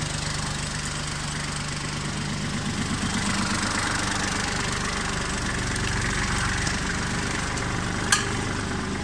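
Kubota tractor's diesel engine idling steadily, with one sharp click near the end.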